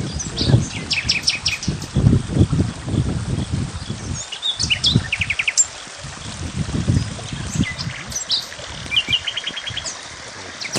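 Small birds chirping, with short, quick trills of repeated notes scattered through, over a low, uneven rumble that rises and falls.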